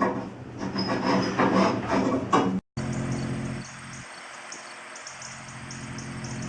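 Soo Line 1003 steam locomotive standing with steam up: a steady hiss and low hum with a light, regular ticking. Indistinct voices come before a sudden cut about two and a half seconds in.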